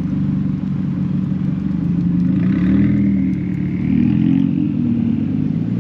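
A car engine running loudly with a deep rumble, its pitch wavering slightly, and a fainter higher sound for a second or two in the middle.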